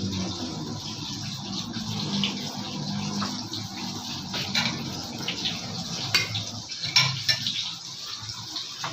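Food frying in hot oil, a steady sizzle, with a few sharp clicks in the second half.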